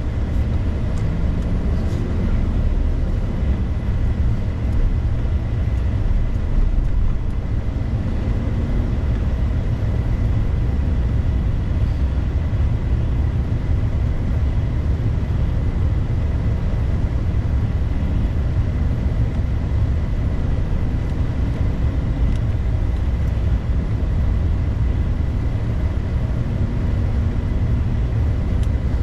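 Steady low rumble of a vehicle being driven: engine and road noise at an even level, with no sudden events.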